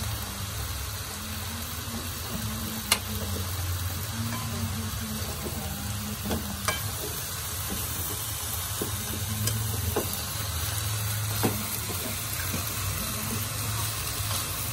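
Shredded banana heart sizzling as it fries in a wok. A wooden spatula stirs it, scraping and knocking sharply against the pan about five times, over a low steady hum.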